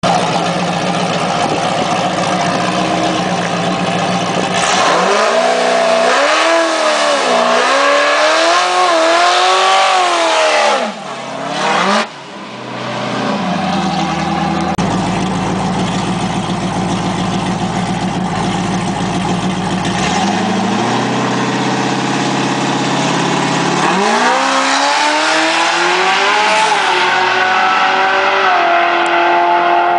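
Drag-racing Corvette's LSX V8, ProCharger F1A-supercharged and on nitrous. It idles, then revs hard for several seconds with the pitch surging up and down, as in a burnout, and drops away briefly about eleven seconds in. It settles into a lumpy idle, then climbs in revs again from about twenty seconds, surging up and down once more as the car heads down the strip.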